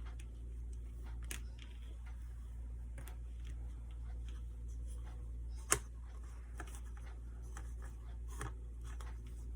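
Scattered faint clicks and rustles of hands working with craft materials, with one sharper click about halfway through, over a steady low hum.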